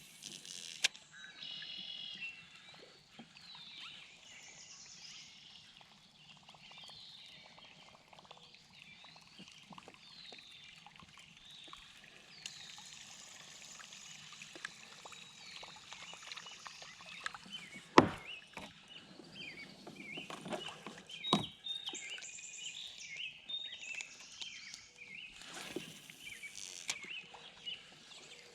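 Birds singing and chirping along the river, with two sharp knocks, about eighteen and twenty-one seconds in, and a short rush of noise near the end.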